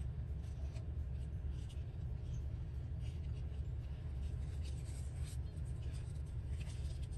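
Paper scraps being handled and pressed down, short light scratchy rustles every second or two over a steady low hum.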